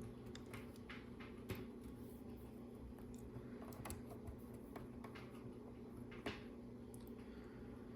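Faint, scattered clicks of small LEGO pieces being handled and pressed onto a LEGO Art board, a few seconds apart, over a steady low hum.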